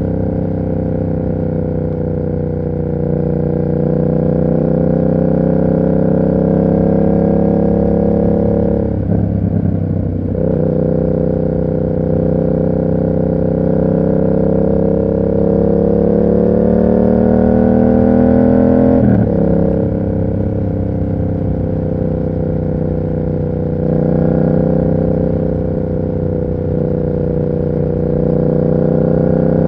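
Yamaha MT-07's 689 cc parallel-twin engine through an aftermarket SC Project exhaust, pulling steadily under throttle with the pitch slowly rising. It drops sharply about a third of the way in and again about two-thirds of the way in, as at gear shifts, then runs steadier.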